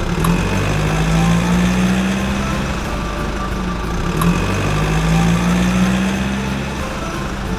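Truck engine running steadily at a low pitch, swelling a little twice.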